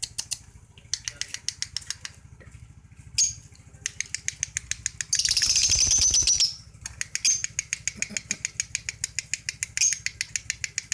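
Lovebird chattering in long runs of rapid high-pitched clicking notes (the trill lovebird keepers call 'ngekek'), several runs in a row, with a louder, denser stretch of about a second and a half in the middle.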